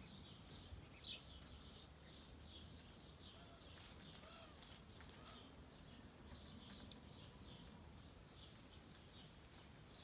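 Faint, high-pitched chirping of small birds: a continuous run of short chirps, several a second.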